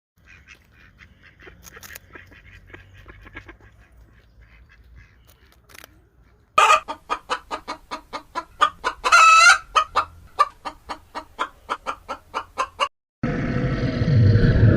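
Chickens clucking, faint at first, then loud rapid clucks, with one longer drawn-out call in the middle. Near the end a different, dense, noisy animal sound cuts in.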